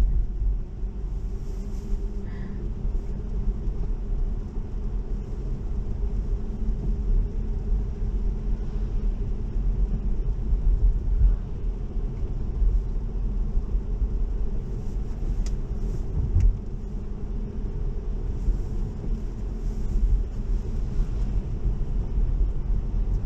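Steady low road and tyre rumble heard from inside the cabin of a Tesla driving at speed, with no engine sound under it because the car is electric.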